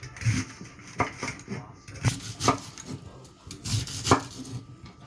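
Knife chopping pak choy on a cutting board: a handful of irregular chops, the loudest near the end.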